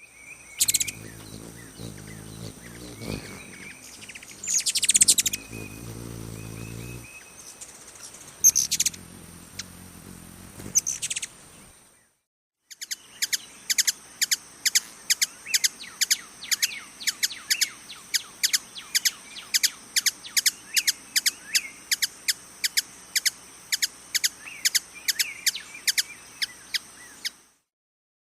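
Hummingbird chirps: a few scattered chirps over a low hum at first, then, after a short break, sharp chip notes repeated rapidly, about three a second, over a steady high thin whine.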